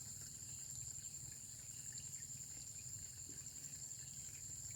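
Faint, steady high-pitched chorus of insects, likely crickets, over a low background rumble.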